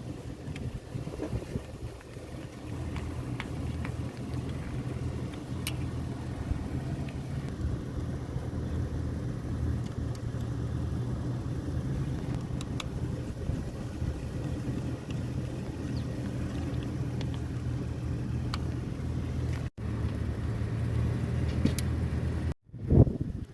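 An engine idling steadily with a low, even hum and a few light clicks; the sound breaks off abruptly twice near the end.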